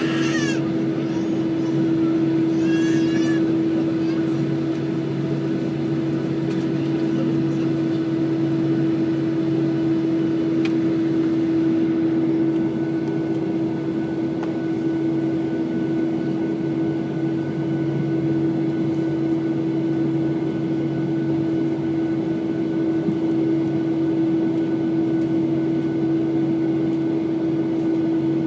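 Steady hum inside a Ryanair Boeing 737 cabin while it waits or taxis before takeoff: jet engines at low power with the cabin air running, holding one low tone with no rise. A few brief high-pitched warbling chirps sound in the first few seconds.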